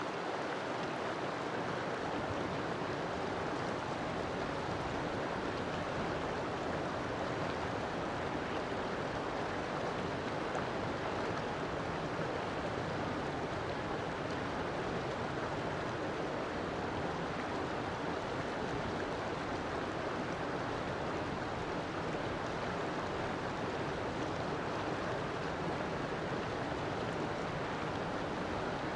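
River water flowing, a steady even rushing with no breaks or changes.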